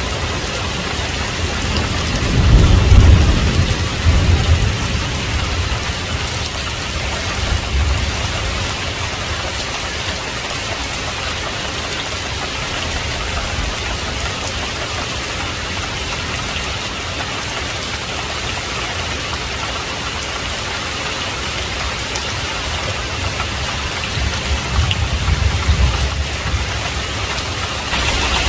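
Heavy rain falling steadily, with a deep rumble of thunder a few seconds in and another, weaker rumble near the end.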